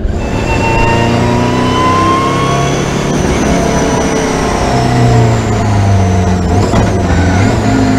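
Lancia Delta Integrale rally car's turbocharged four-cylinder engine running hard on track, revs climbing over the first few seconds and then holding steadier.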